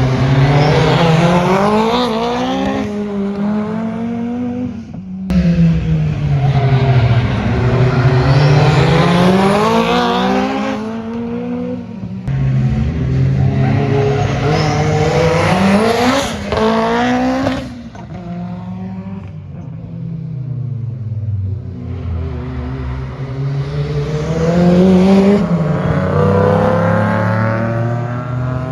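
Cars driven hard on a race circuit. Engines rev up through the gears and pass by, the engine note climbing and then dropping again and again, with abrupt changes from one car to the next.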